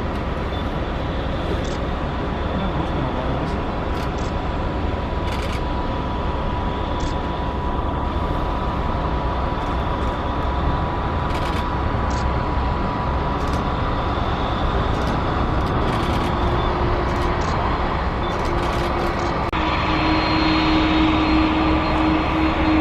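Boeing 767-200 freighter's jet engines on approach: a steady rumble that slowly grows louder, with a steady high whine, joined by a lower steady tone about three-quarters of the way through.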